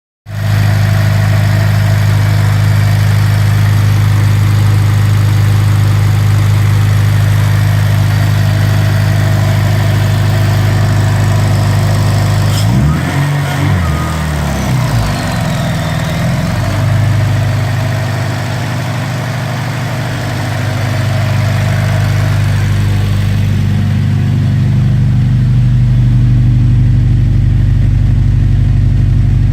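Engine newly fitted with an Eaton TVS1320 supercharger running on its first startup, idling steadily. About halfway through, the revs rise and fall a few times before settling back to idle, which gets a little louder near the end.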